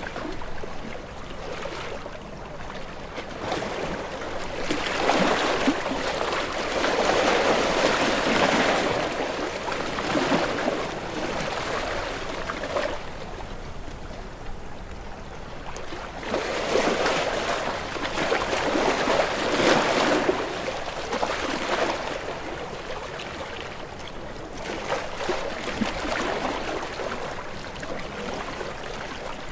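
Ocean waves washing in: a steady rushing hiss that swells and fades every several seconds, with two larger surges.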